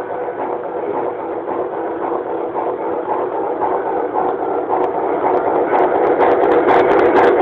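Model Heisler geared locomotive running, a steady mechanical sound with a faint repeating beat that grows a little louder. Sharp clicks join in near the end.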